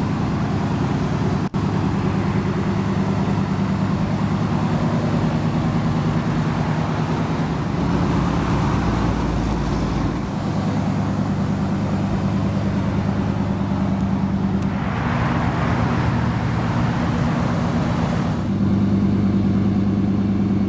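1991 Chevrolet Silverado's 5.7-liter V8 idling steadily, a little louder near the end.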